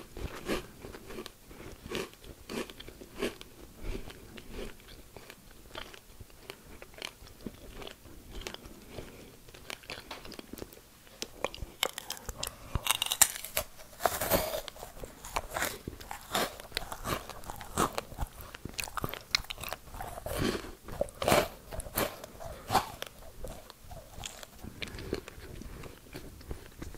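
Crunching and chewing of dried strawberries coated in white chocolate, in irregular crackly bites, with louder runs of crunching about halfway through and again a little later.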